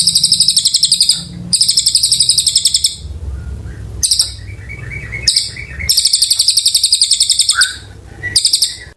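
A cililin bird singing in long, rapid high trills, each burst lasting about a second and a half with short gaps between, and softer twittering in the pauses. A steady low hum runs underneath.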